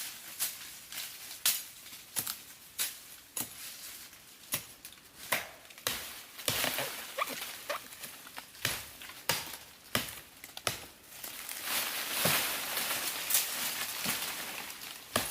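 Irregular sharp taps and clicks with stretches of rustling or scraping noise, about six seconds in and again near the end, like hands working with plant material or objects.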